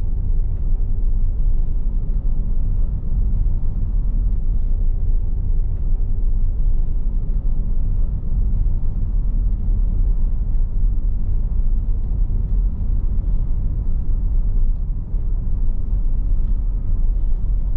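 Car driving along a road: a steady, loud, low rumble of engine and road noise.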